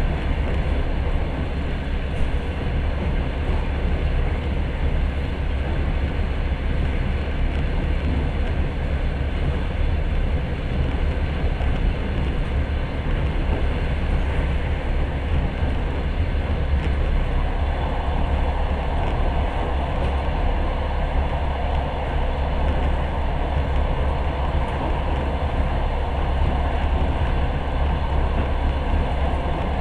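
Passenger train running along the line, heard inside the carriage as a steady low rumble with rolling noise; a little over halfway through the noise turns louder and hissier.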